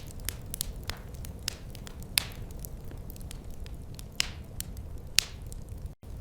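Wood fire in a fireplace crackling, with irregular sharp pops and snaps over a steady low rumble of the flames; two louder pops stand out, and the sound cuts out for an instant near the end.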